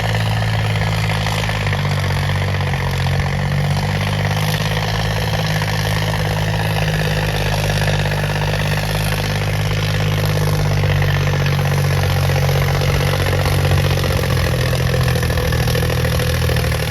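Swaraj 855 tractor's three-cylinder diesel engine running steadily near idle, its note stepping up slightly about a second and a half in.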